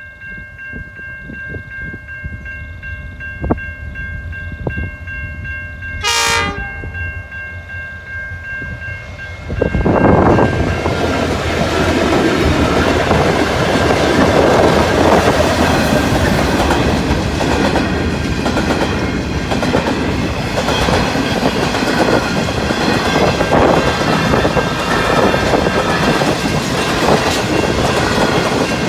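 Grain train at a level crossing: the horn sounds a held chord of several notes for about nine seconds, with a short louder blast about six seconds in. From about ten seconds the diesel locomotive and grain wagons pass close and loud, with wheels clattering over the rails.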